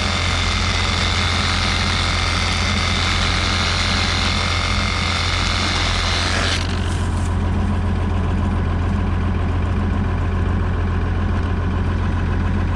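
Combine harvester engine running steadily at idle, a constant low hum. Over it, a high hissing whine with steady tones cuts off suddenly about six and a half seconds in.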